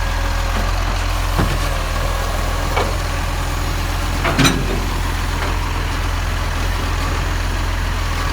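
Garbage truck engine running steadily at a low hum, with a few short knocks and clunks; the loudest comes about four and a half seconds in.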